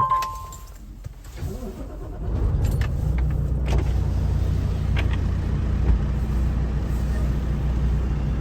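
A short two-note electronic beep, then from about two seconds in the semi truck's diesel engine runs louder and steady as the truck pulls forward.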